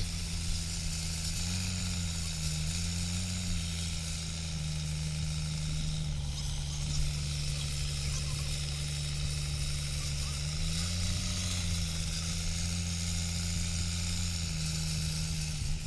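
A truck engine running steadily at low revs, its pitch rising slightly twice, with a steady hiss above it.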